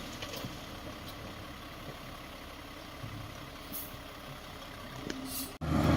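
Heavy diesel earthmoving machinery running at a distance, a steady low rumble with a couple of brief hisses. Near the end the sound cuts abruptly to a much louder engine running close by.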